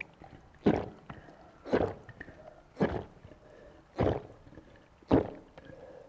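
A person gulping a cold orange soft drink: five swallows, about one a second.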